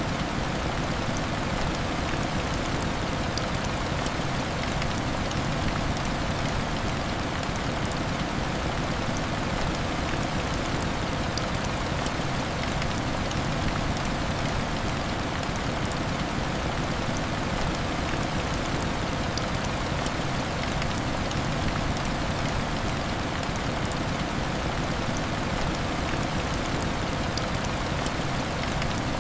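Heavy rain falling steadily: a dense, even hiss with many fine ticks of individual drops.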